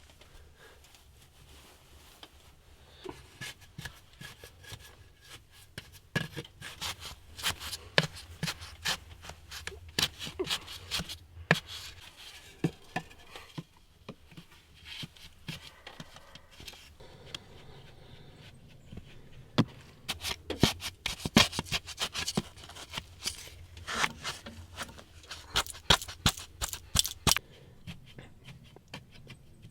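Irregular sharp clicks, rubs and scrapes of something being handled, in two busy stretches: one from about three seconds in to about thirteen, the other from about nineteen seconds in to about twenty-eight, with a faint low hum underneath.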